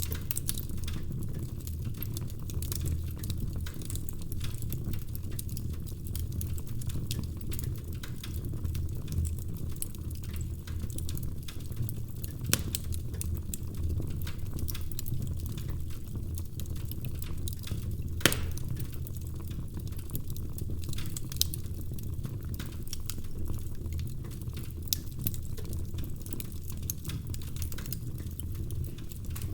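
Wood fire burning in a fireplace: a steady low rumble of flames with frequent small crackles and occasional louder pops from the burning logs.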